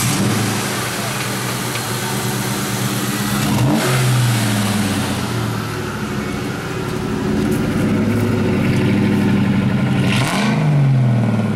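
2000 Ford Mustang GT's 4.6-litre V8 idling through an aftermarket exhaust, revved briefly twice, about four seconds in and again near the end.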